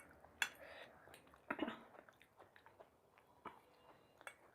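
A person chewing and biting food close to the microphone, with a sharp crunch about half a second in and a louder crackly bite about a second and a half in, then quieter mouth clicks.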